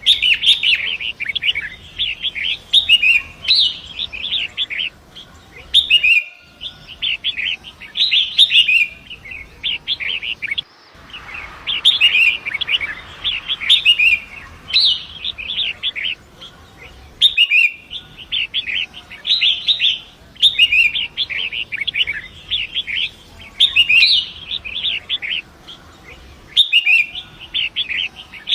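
Long-tailed shrike singing a busy, scratchy song in repeated phrases of a second or two, with short pauses between them, over a faint steady rush of river water. A few times the whole sound drops out for an instant.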